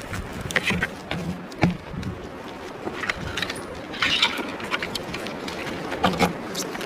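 Climbing gear being handled, metal hardware clinking and rattling in scattered short clicks, the loudest around two seconds and four seconds in, over a steady background hiss.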